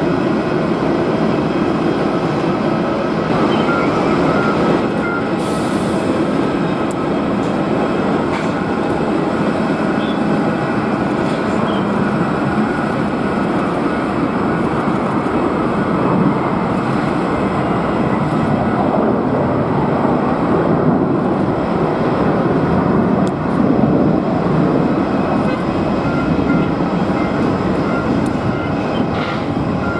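Jet airliner engines running, a loud steady noise with a faint whine, typical of an aircraft at thrust on the runway.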